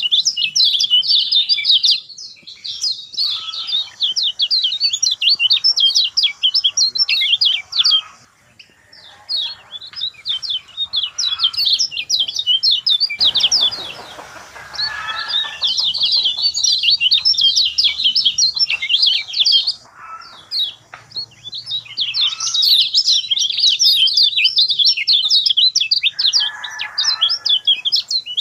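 Lemon-bellied white-eyes (kecial kuning) singing: fast, high twittering chirps in long runs with short breaks, and a brief rustle about halfway through.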